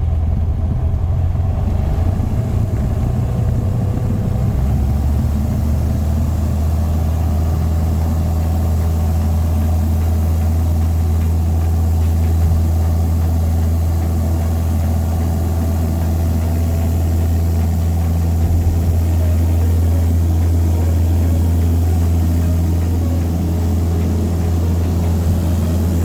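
Piper PA28's piston engine and propeller running with a steady drone, heard from inside the cabin. The note shifts slightly about four seconds in.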